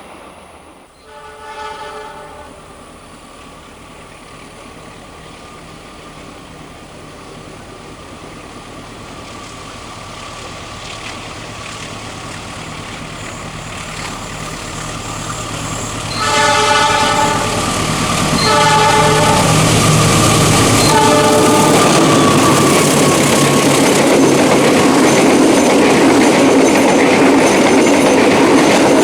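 An Indonesian train's diesel locomotive sounds its horn once, then comes closer, its rumble growing steadily louder. About 16 s in it sounds three more horn blasts, the last one short, and the train runs past loudly on the curve.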